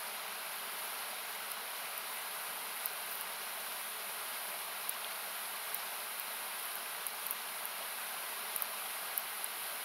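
Steady rushing of a nearby river, thinned by equalization into a hiss, with the scattered sharp pops of a wood campfire crackling over it.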